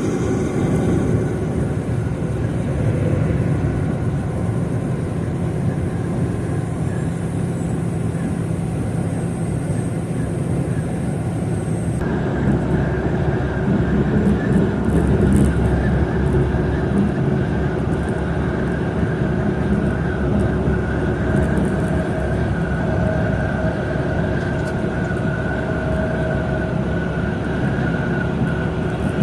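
Livestock semi-truck running on the road, a steady engine and road noise, with an abrupt change in the sound about twelve seconds in.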